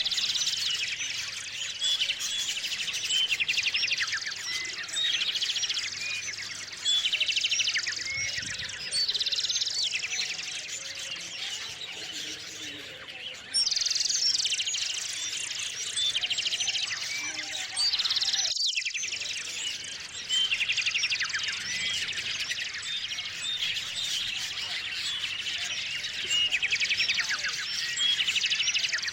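A chorus of small songbirds chirping and trilling, with many short calls and rapid trills overlapping.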